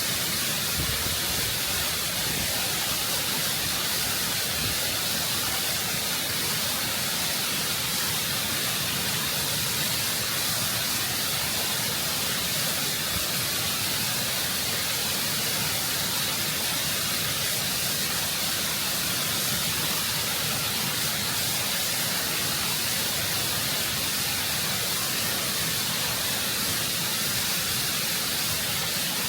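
Waterfall heard close up, its water rushing and cascading over rock in a steady, full hiss that does not change.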